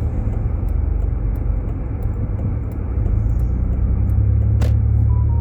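Road noise inside a Jeep Grand Cherokee's cabin as it drives on a snowy, slushy road: a steady low rumble that gets louder about three seconds in, with one sharp knock near the end.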